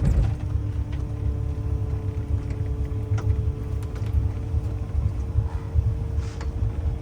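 A 27-foot boat's engine running at low speed, a steady hum over a low, uneven rumble.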